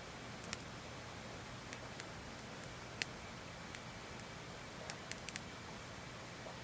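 Wood fire crackling: scattered sharp pops, the loudest about three seconds in and a quick run of several around five seconds, over a steady hiss of a babbling stream.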